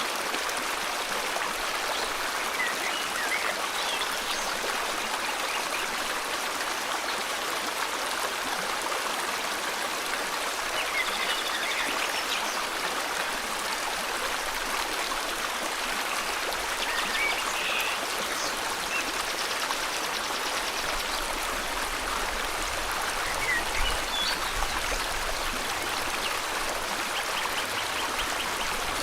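River water flowing steadily, with birds chirping in short, scattered calls and a few brief trills over it.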